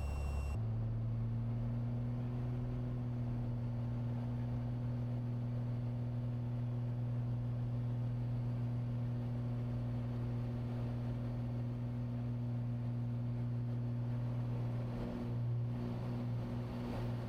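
Cessna 182's single piston engine and propeller running steadily at takeoff and climb power, heard inside the cockpit as an even low drone.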